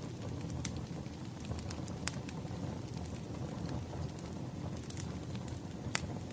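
Wood fire crackling: a steady low rumble of burning logs with scattered sharp pops, the strongest about 2 and 6 seconds in.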